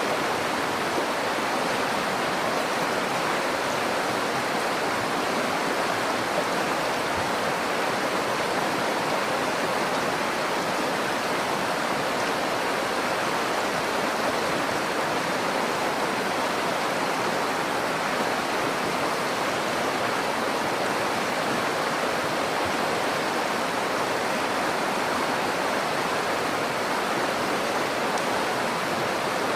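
River water rushing and splashing over rocks, a steady even rush with no change.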